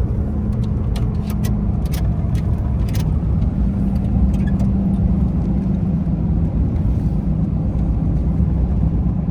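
Vehicle driving at road speed, heard from inside the cab: steady engine drone and road rumble, with a few light clicks in the first few seconds.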